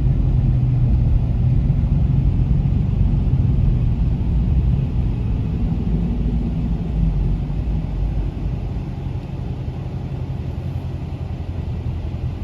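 Dodge Challenger Scat Pack's 392 (6.4 L) HEMI V8 running while the car is driven, with a steady low rumble. It eases off a little about eight seconds in.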